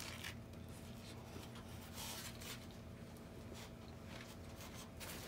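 Faint crunching of a hard-shell taco being chewed, in several irregular scratchy bursts over a low steady room hum.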